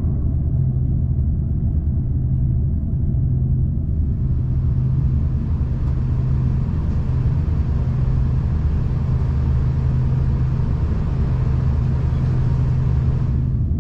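V/Line diesel train running, heard from on board: a steady low rumble with a held engine hum. About four seconds in a softer hiss joins it, and the hiss cuts off shortly before the end.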